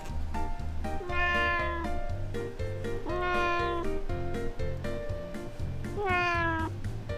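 House cat meowing three times in the soft, drawn-out way of a cat asking for affection, the last meow sliding down in pitch. Background music with a steady beat plays underneath.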